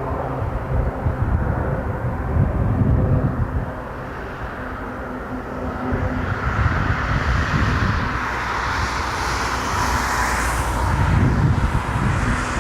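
Jet airliner's engines passing close by: a low rumble throughout, with a rising hiss that builds from about halfway and is loudest near the end.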